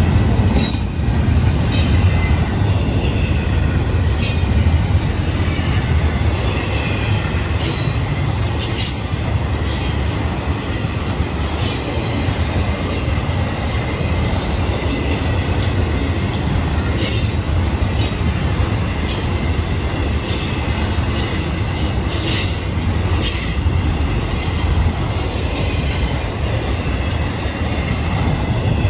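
Double-stack container well cars of a freight train rolling past close by: a steady low rumble of steel wheels on rail, with irregular sharp clicks and faint, wavering high squeals from the wheels.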